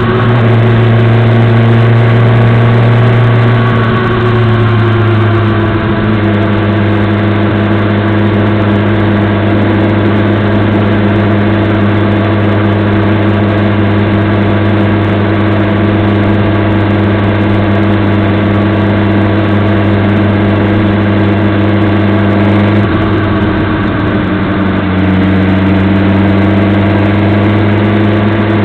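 Motorcycle engine running steadily, recorded by a dash camera on the bike; its note drops a little about four seconds in, then dips and rises again near the end.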